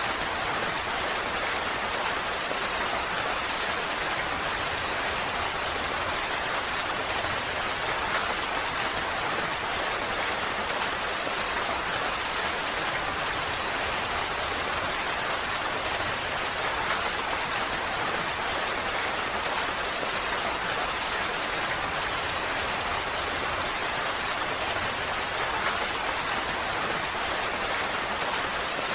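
Steady rainfall with individual drops pattering on surfaces, a constant even hiss.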